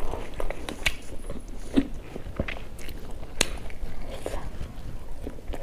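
A person chewing a mouthful of food close to the microphone, with irregular wet smacks and sharp mouth clicks; the sharpest click comes about three and a half seconds in.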